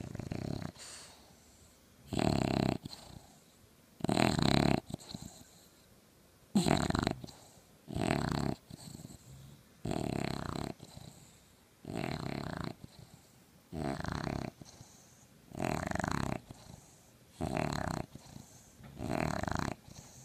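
English bulldog puppy snoring in sleep: a loud snore about every two seconds, ten in all, with softer breathing sounds between them.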